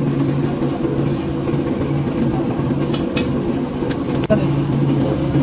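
Steady low mechanical running hum with a few sharp clicks, from about three seconds in.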